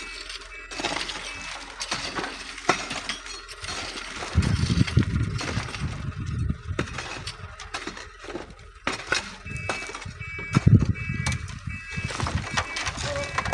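Stones and gravel clinking and rattling in scattered knocks, as sand is dug and sifted by hand. Wind rumbles on the microphone from about four seconds in.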